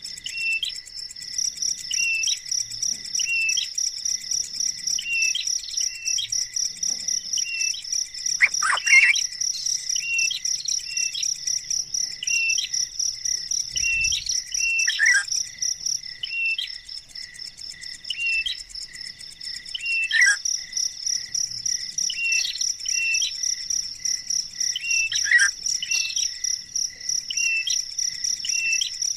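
A steady, pulsing high insect buzz, with a bird repeating short chirps about once a second. Four louder calls sweep steeply downward, about five seconds apart.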